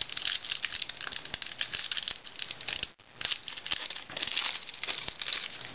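Baseball cards and pack wrapper handled by hand: a run of dry crinkling, rustling and small flicks, with a brief pause about halfway.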